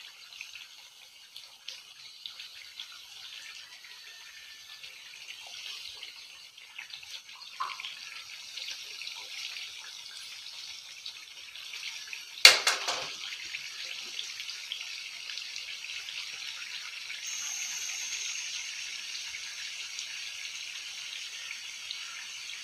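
Masala gravy with potato chunks frying in a wok, a steady hiss and sputter of oil that slowly grows louder. The oil has separated from the cooked masala. About halfway through comes one sharp knock.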